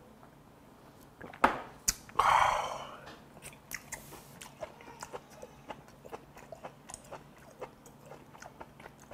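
A shot glass clacks down on the table, followed by a short, loud breathy exhale after a shot of soju. Then come close-miked chewing sounds: many small wet clicks and smacks of a mouthful being chewed with closed lips.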